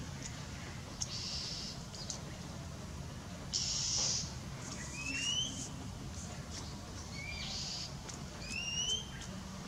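Short rising whistled calls, like a bird's, around five seconds in, briefly near seven seconds and again near nine seconds, over a steady low hum. Between them come several brief hissing swishes, the loudest about four seconds in.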